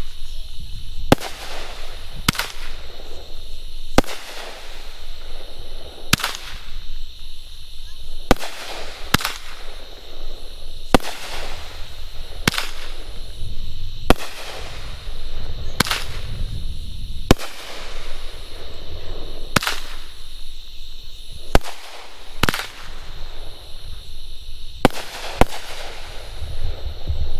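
A 200-gram, 9-shot consumer firework cake firing straight up. A string of sharp launch thumps and aerial bangs comes every second or two, with a hissing sizzle from the gold strobe stars trailing after each burst.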